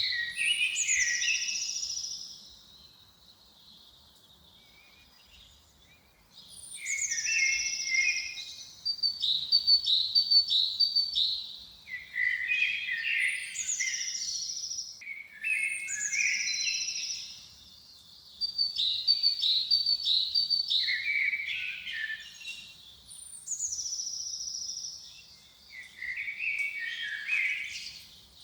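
A songbird singing the same short phrase over and over, one phrase roughly every three seconds after a pause of a few seconds near the start. Each phrase opens with a high falling whistle, runs into a quick series of high notes, and ends on lower, rapid notes.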